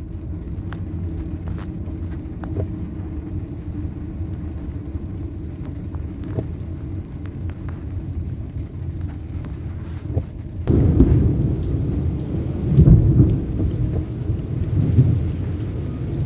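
Rainstorm heard from a moving car on wet streets: a steady low rumble with scattered raindrop ticks. About ten seconds in it turns suddenly louder and fuller, swelling to its loudest a couple of seconds later.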